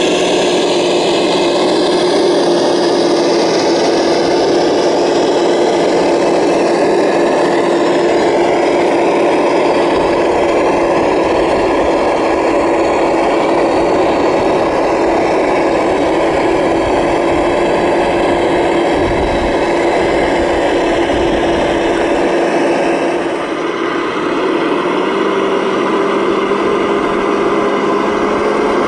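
Radio-controlled model trucks running steadily, their small electric drive motors and gearboxes giving a high mechanical whine. About three-quarters of the way through, the sound dips briefly and settles at a slightly higher pitch.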